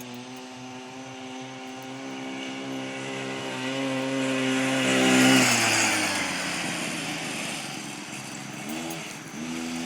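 Mini bike's small engine running as it rides past: it grows steadily louder, then its pitch drops about five seconds in as it goes by and fades away, and is heard coming back near the end.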